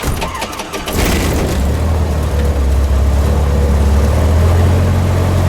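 A Cessna 150's Continental O-200 four-cylinder engine starting up warm without priming: rough cranking for about a second, then it catches and settles into a steady run.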